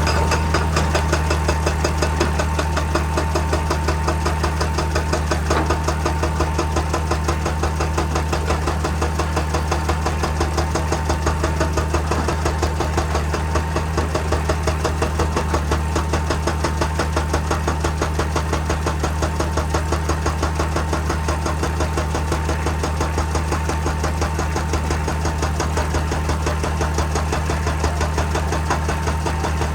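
Excavator-mounted hydraulic breaker hammering rock in rapid, evenly spaced blows, starting at once and keeping a steady pace, over the excavator's diesel engine running steadily.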